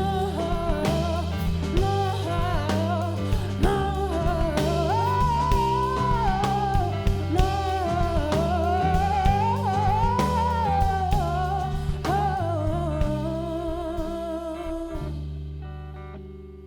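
Soulful band music: a woman singing a wavering melody over guitar, bass and drums. About fifteen seconds in the band stops and a held chord fades away.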